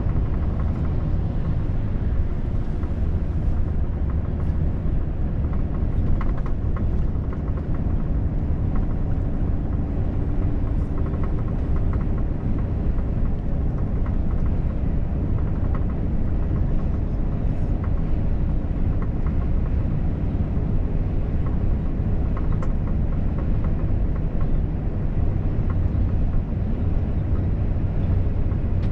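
Volvo FH truck driving at a steady speed: a continuous low rumble of engine and road noise with a faint steady engine hum.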